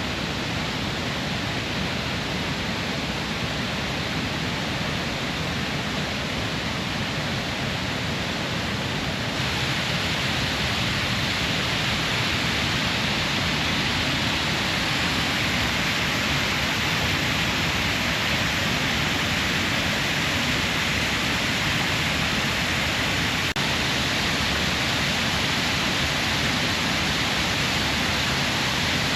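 Steady rushing water, a constant even hiss with no separate events, getting a little louder and brighter about nine seconds in.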